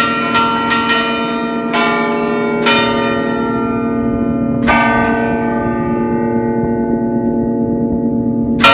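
Peal of nine bronze church bells in B-flat, cast by Francesco D'Adda e figli of Crema in 1931, rung by hand in an allegrezza, the festive melodic ringing. A quick run of strikes opens, followed by three single strikes about a second or two apart. A long ring then fades, until a fresh flurry of strikes comes near the end.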